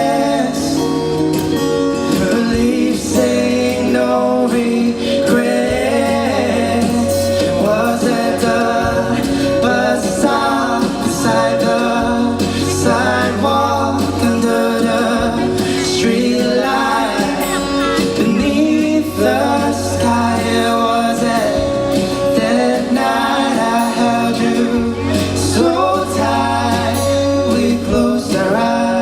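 Live band playing a soft pop song, a singer's voice carrying the melody over sustained bass notes that change every couple of seconds.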